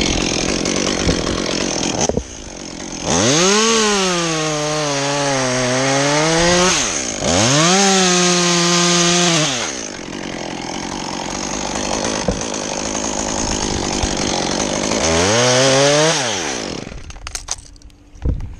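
Two-stroke chainsaw revving up and cutting wood in three spells, the third one shorter. Each time the engine pitch rises, then drops and holds lower under the load of the cut. The saw dies down shortly before the end.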